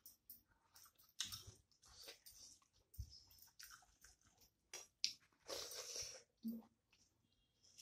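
A person chewing a mouthful of rice and chicken curry close to the microphone: short, irregular wet mouth clicks and crackles, with a longer noisy stretch about five and a half seconds in.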